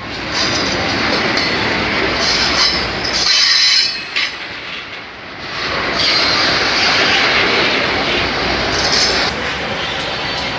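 Freight train of tank cars rolling past close by: a steady rumble of wheels on rail, broken by several high squeals from the wheels.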